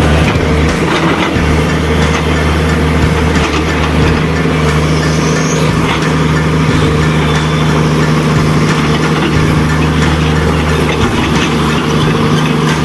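Articulated dump truck's diesel engine running steadily at low revs, a continuous low even drone.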